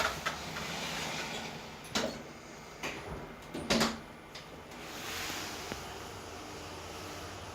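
OTIS GeN2 elevator's automatic sliding doors in operation: a few sharp clunks over the first four seconds, then a steady even hiss.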